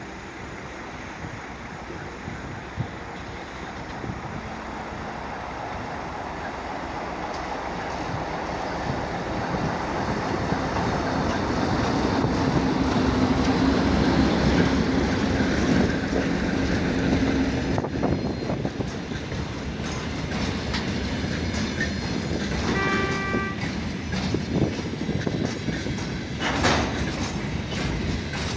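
A ChME3 diesel shunting locomotive approaches and passes, its six-cylinder diesel engine growing louder to a peak about halfway through. Then come the repeated clickety-clack of empty grain hopper wagons' wheels over the rail joints, with a short horn note about three-quarters of the way in.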